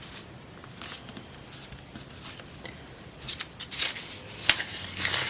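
Paper scraps rustling and crinkling as they are handled. Faint at first, then a quick run of sharp, louder crinkles from about three seconds in.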